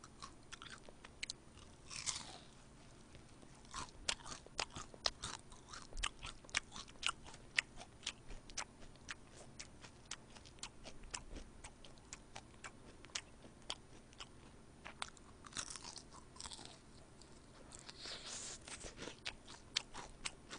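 Close-miked chewing of soy-sauce fried chicken: a long run of short, sharp crunches while the meat is bitten and chewed.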